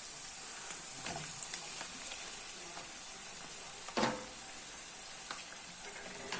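Chopped seafood, onion and hot pepper sizzling in hot oil in a frying pan, with a few knocks of a utensil against the pan, the loudest about four seconds in.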